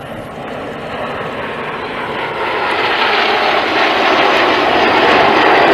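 BAE Hawk T1 jets, with Rolls-Royce Adour turbofans, heard as a steady rushing jet noise that grows louder as they approach.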